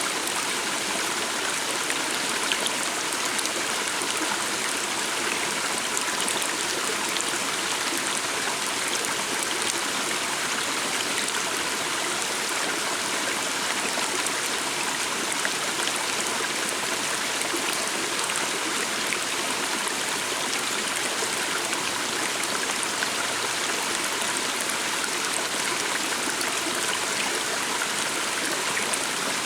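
A calm water stream flowing steadily.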